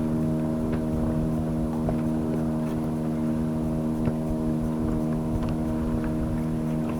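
Outboard motor running at a steady pitch with no change in speed, over low wind rumble on the microphone.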